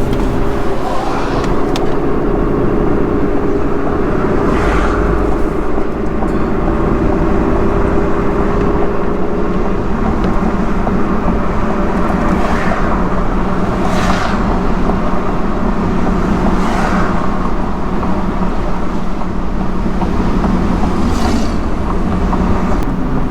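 Car driving slowly, with a steady engine hum and road rumble and a few brief whooshes along the way.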